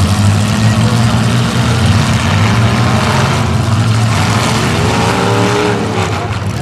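Demolition derby cars' engines running loudly, with one engine revving up and down about five seconds in.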